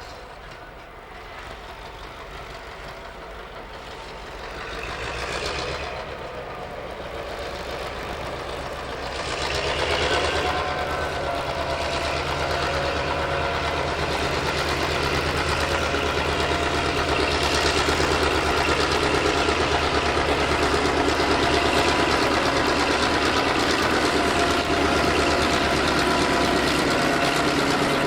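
Diesel locomotive engine running, growing louder over the first ten seconds, then holding steady and close.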